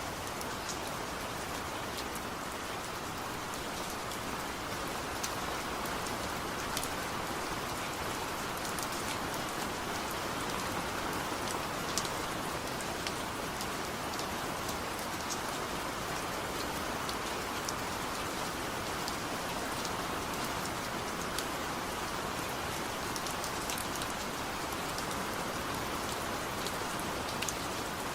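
Steady light-to-moderate rain falling on a surface, an even hiss with scattered individual drop ticks, no thunder.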